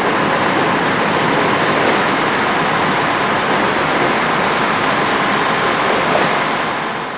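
Departing diesel-hauled passenger train moving off into the distance, a steady rushing rumble of engine and wheels on rail that fades out near the end.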